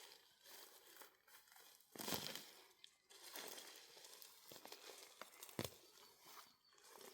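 Quiet, irregular rustling and crinkling of material being handled, with the loudest rustle about two seconds in.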